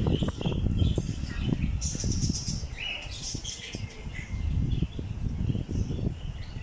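Aviary birds chirping and calling in short, scattered bursts over a louder, uneven low rumble.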